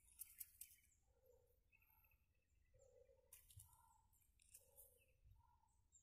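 Faint bird calls, a string of short low notes roughly every half second to second, with a few soft clicks.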